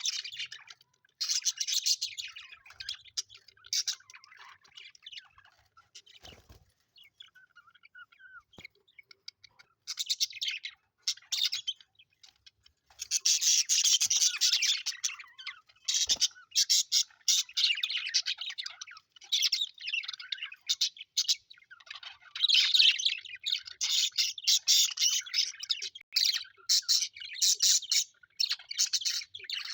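Budgerigars chattering with rapid high chirps and warbles in bouts. The chatter thins out for several seconds early on, then runs almost without a break through the second half. Two faint knocks come at about six seconds and sixteen seconds in.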